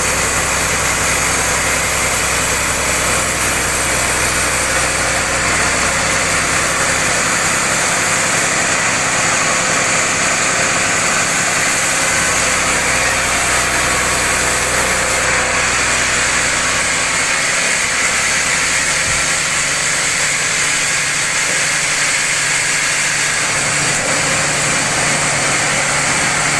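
Sawmill machinery running steadily: a loud, even mechanical noise with a low hum underneath.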